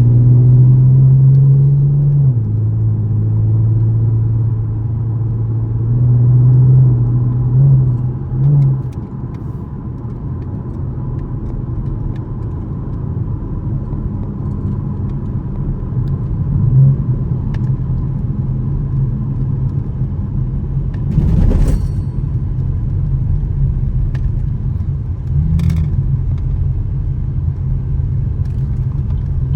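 A 2013 Camaro LS's 3.6-litre V6 pulls under load with a steady drone. Its pitch drops about two seconds in as the six-speed automatic, held in manual mode, shifts up. After a couple of short blips it settles into a lower, steady rumble of cruising with road noise, with a brief rushing sound about three quarters of the way through.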